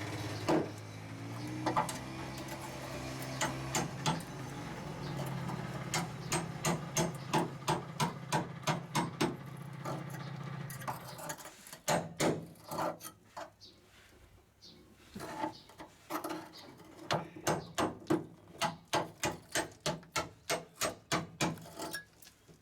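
Repeated hammer strikes on car-body sheet metal, about two a second, during side sill repair. A steady machine hum runs underneath and stops about halfway.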